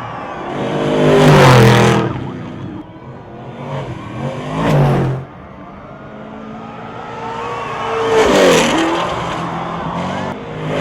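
Off-road racing vehicles' engines running hard as they pass at speed, three times, each pass loudest as it goes by and dropping in pitch as it moves away.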